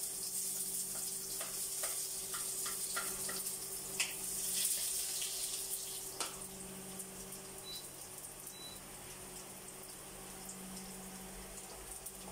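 Chopped garlic sizzling in a hot pan, a steady hiss, with a few sharp taps of a wooden spatula against the plate and pan about four and six seconds in.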